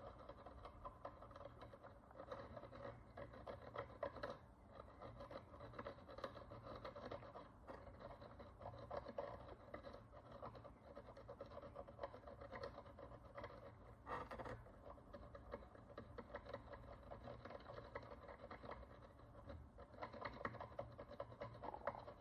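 A hand tool scraping encrustation off the surface of a Roman bronze coin: a faint, continuous fine scratching made of many quick small strokes, with a couple of sharper clicks.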